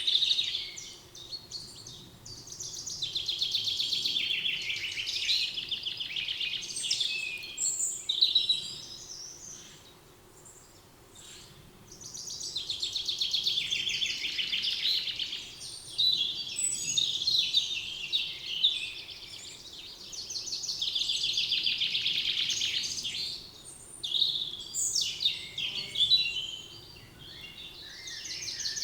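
Songbirds singing in a spring forest: long, rapid trilled phrases a few seconds each, mixed with short chirps from other birds, with a brief lull in the middle.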